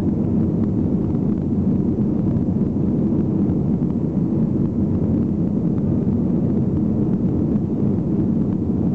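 Steady low roar of an airliner's engines and airflow heard inside the passenger cabin, with no change in pitch or level.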